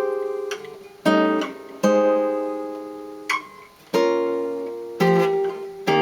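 Guitar played chord-melody style: about five chords in the key of E flat, each struck and left to ring and fade before the next, the harmony leading down toward an A flat major 7.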